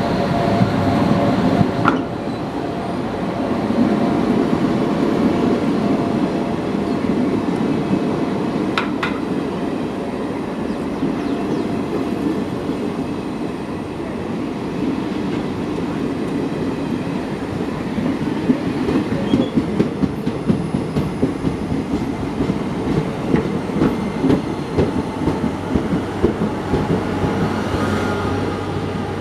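Passenger train running past at speed: the electric locomotive's end goes by, then a long rake of coaches rolls past with a steady rumble. The wheels clatter over rail joints, and the clatter turns into a regular clickety-clack in the second half.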